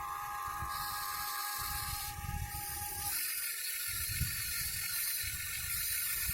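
Huina 1580 RC electric excavator's electric motors and gearing whining steadily as the machine works, over a low uneven rumble; one steady tone drops away about halfway through.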